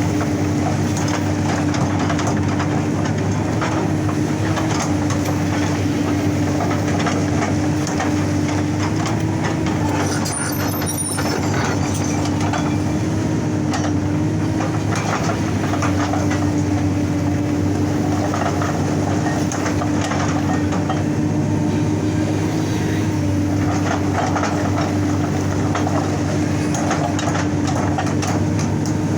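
Excavator diesel engine running steadily under load while a hydraulic rock breaker hammers rock in rapid, continuous blows.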